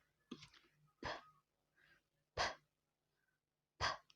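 A woman pronouncing the English /p/ sound three times as short breathy puffs of air, about a second and a half apart, with a faint lip click just before the first.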